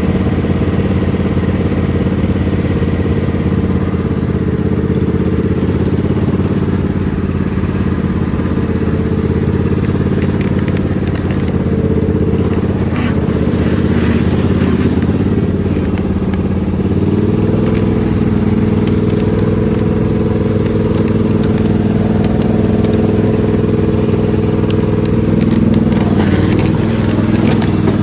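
Riding lawn mower engine running steadily under way. Its pitch steps up slightly about two-thirds of the way through.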